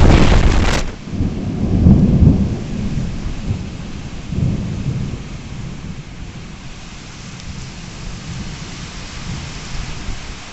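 A thunderclap at the start rolls into low rumbles that die away over several seconds, with steady rain falling throughout.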